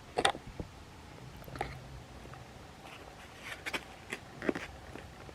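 Scattered short clicks and crinkles as a takeout wrap and its packaging are handled, with two sharper clicks at the start.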